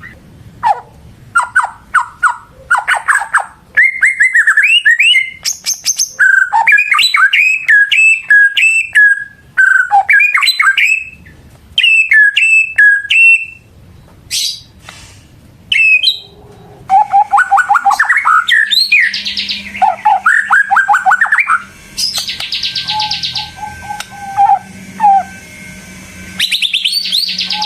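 White-rumped shama (murai batu) in full, loud song: fast, varied whistled phrases and repeated rising and falling notes, broken by short pauses. In the last third comes a rapid buzzy trill.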